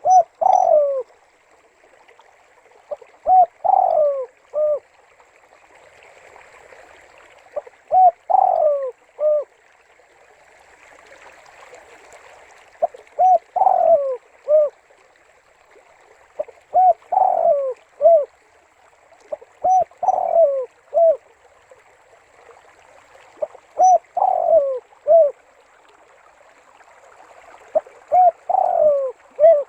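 Spotted dove (tekukur) cooing: a repeated phrase of a few short notes around one long falling coo and a short closing note, about every four seconds, eight times. A faint steady hiss lies beneath.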